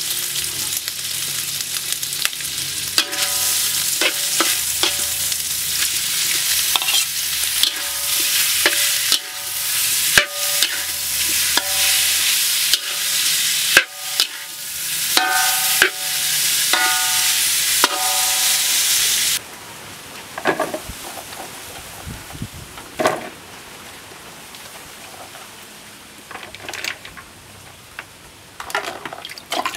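Pork and salted fish sizzling in a steel wok while a metal spatula stirs and scrapes, clinking against the pan. About two-thirds of the way through, the sizzle cuts off suddenly, leaving quieter handling sounds of long beans in a plastic basin.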